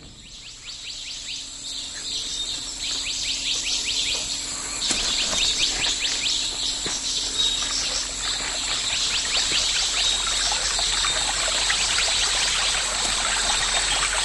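Forest ambience: many insects chirping and birds calling over a steady background hiss that fades up in the first few seconds.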